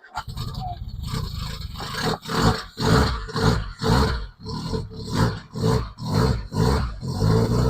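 Freshly installed Ford 2.0 Pinto four-cylinder engine running roughly, with its note swelling and dropping in regular pulses about twice a second. The ignition timing is a little off.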